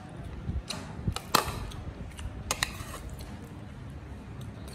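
Close-up eating sounds: a mouthful of small whole shrimp and rice being chewed, with a few sharp clicks and smacks, the loudest about a second and a half in.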